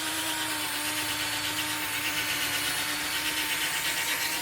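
Electric drill spinning an 800-grit sanding disc on a backer pad, wet-sanding a plastic headlight lens: a steady motor whine over a continuous grinding hiss.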